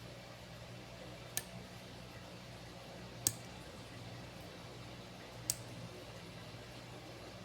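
Washing machine motor running with a low, steady hum, broken by three sharp clicks about two seconds apart.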